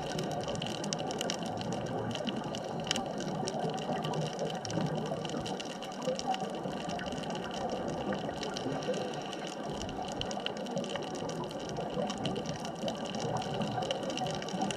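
Underwater ambience on a dive: a steady hum with a few constant tones, overlaid with fine, continuous crackling.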